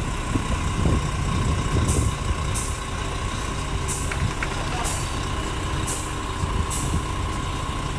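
Heavy truck's diesel engine running with a low rumble and a steady whine, with short high hissing sounds repeating about once a second.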